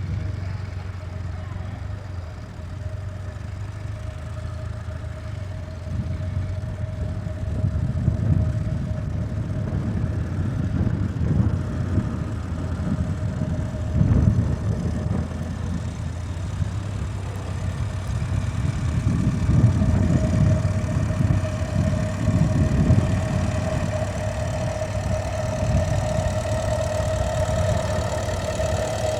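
A tractor engine running steadily, with a steady whine above its hum that grows louder near the end and irregular low surges in the middle.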